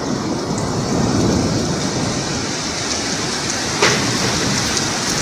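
Heavy hailstorm with rain: a dense, steady hiss and patter of hail and rain falling, with one sharp knock of an impact about four seconds in.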